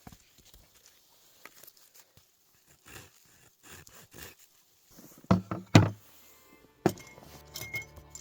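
Soft scattered rustles and steps, then two heavy thumps about half a second apart past the middle and a third a second later. Background music comes in near the end.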